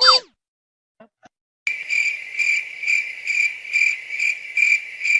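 Crickets chirping: a steady high trill pulsing about twice a second, the stock "awkward silence" comedy sound effect. It starts after a second and a half, following the short tail of a gliding sound effect at the very start.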